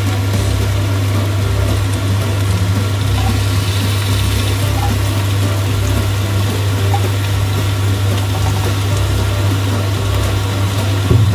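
Raw chicken pieces sliding from a pot into a hot wok of sautéing vegetables and sizzling, over a steady low hum.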